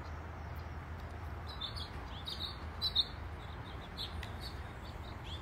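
Small birds chirping in short, high calls, most of them between about one and a half and four seconds in, with two louder chirps near the middle, over a steady low outdoor rumble.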